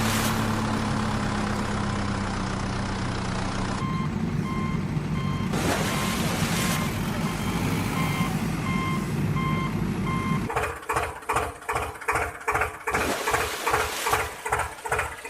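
Truck engine running steadily, then a reversing alarm beeping at a steady pace, a little under once a second, starting about four seconds in. Near the end the sound changes to a fast chugging rhythm of about five pulses a second.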